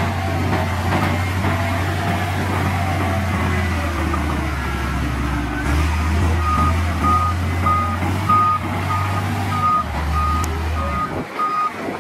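Diesel engine of a heavy earthmoving machine running with a low drone, joined about halfway through by its reversing alarm beeping steadily, about two beeps a second.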